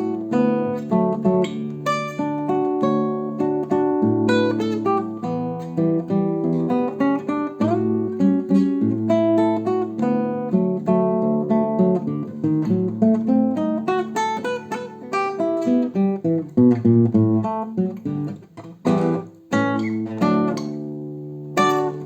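Solo acoustic guitar playing a Brazilian choro: a picked melody over a moving bass line. Near the end come a few strummed chords, then a final chord, and the playing stops.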